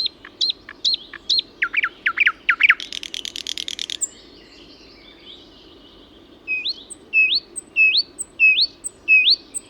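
Nightingale singing: a run of high repeated notes, then downward-sweeping notes and a rapid buzzy trill. After a pause of about two seconds comes a series of rising whistled notes, repeated roughly every half second.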